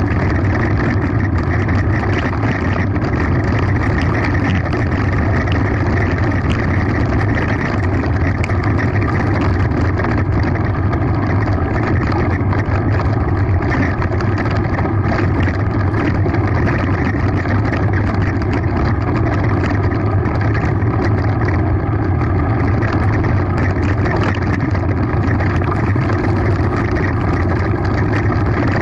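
Mountain bike descending a gravel forest road at speed: a steady rush of wind and tyre noise, with a rapid fine rattle of the bike over the rough surface.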